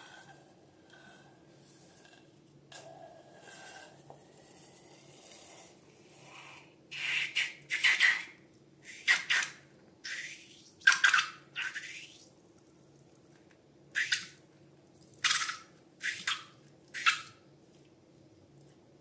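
Slime being squeezed and pressed by hand: after a quiet start, a run of about ten short squelching squishes, roughly one a second, begins about seven seconds in.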